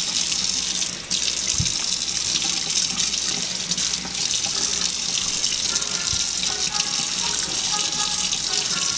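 Water running steadily from a sink tap, an even splashing hiss.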